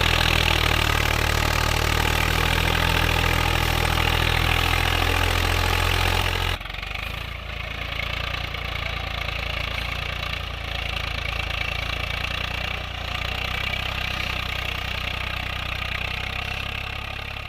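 Tractor engine running steadily. About six and a half seconds in, the sound drops abruptly to a quieter, lower-toned running that carries on.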